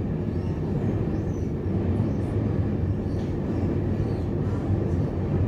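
Steady low rumble of a Taiwan Railways commuter electric multiple unit running on the line, heard from inside the passenger car.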